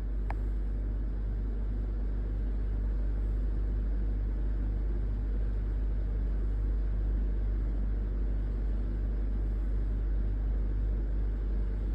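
A steady low hum and rumble with no change in level, and a single faint click just after the start.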